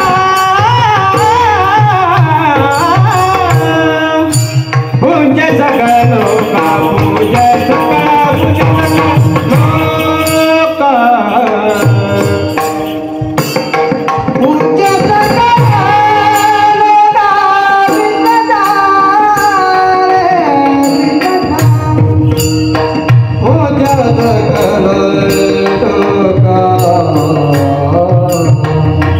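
Devotional abhang singing: a voice carrying a long, ornamented melody over a hand drum and steady metallic percussion strikes.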